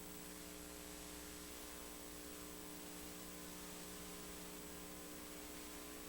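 Faint steady electrical hum with hiss from a VHS tape's playback on a blank stretch between segments.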